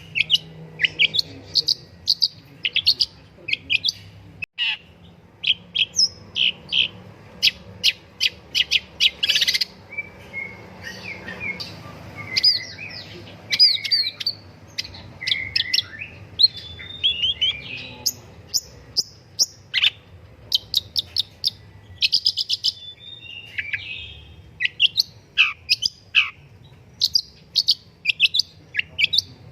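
Long-tailed shrike singing vigorously and almost without pause: quick runs of sharp high chirps and trills, repeated in bursts, with a few gliding whistled notes mixed in.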